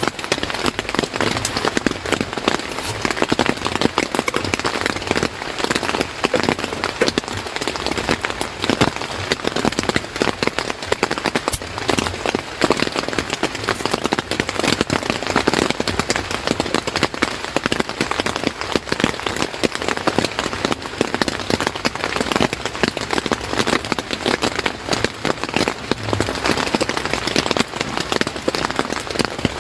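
Steady heavy rain, a dense, unbroken patter of drops hitting a surface.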